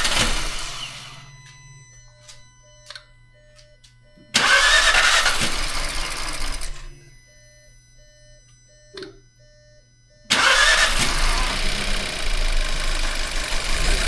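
The 2017 Volkswagen Jetta's 1.4-litre TSI engine, started up after being reassembled. It fires and runs briefly, dies away, and fires again about four seconds in. On a third start about ten seconds in, it catches and keeps running.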